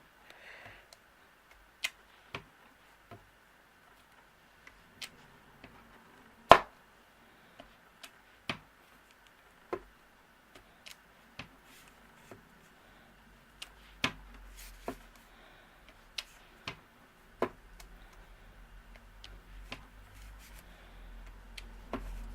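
Photopolymer stamp on an acrylic block tapping onto an ink pad and paper, stamping speckles: a string of irregular sharp clicks and knocks, the loudest about six and a half seconds in.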